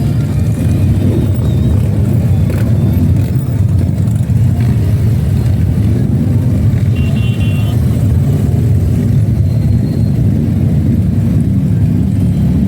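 Motorcycle engines, most likely Harley-Davidson V-twins, running with a loud, steady low rumble.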